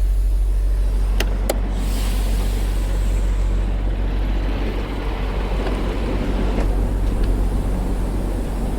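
Semi truck's diesel engine idling steadily, with two sharp clicks about a second in. A steady outdoor hiss sets in from about two seconds.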